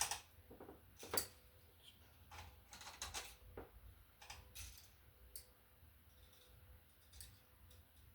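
Hand tool working on a black electrical wire, pulling its insulation down: a scattered series of small clicks and short scrapes, the two sharpest clicks at the start and about a second in.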